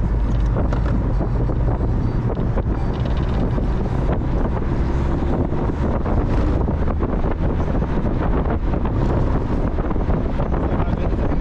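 Heavy wind buffeting the microphone in a moving Mazda Miata, over a steady rumble of engine and road noise.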